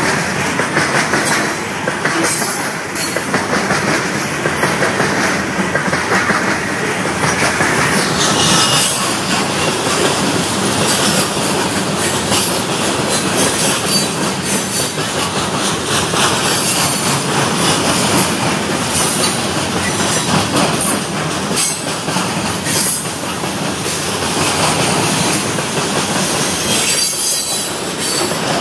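Union Pacific train's cars rolling past on the rails: a steady, loud noise of steel wheels on track, with metallic wheel squeal and rail clacks, the high screech getting brighter about eight seconds in.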